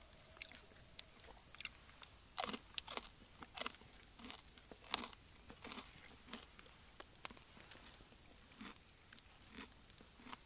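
A series of short, irregular crunches, loudest and thickest around the middle, over a faint background.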